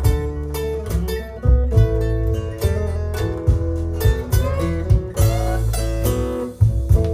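Blues record played from vinyl: an instrumental guitar passage between sung verses, over a steady bass line and a regular beat.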